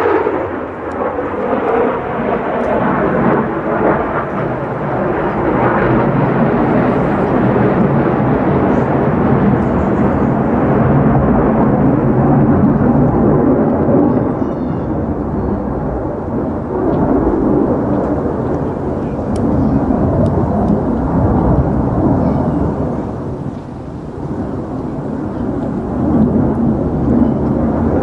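F-35A Lightning II jet fighter's single Pratt & Whitney F135 afterburning turbofan, heard as a loud, continuous, deep rumble during its display flight. It eases briefly about 23 seconds in and swells again near the end.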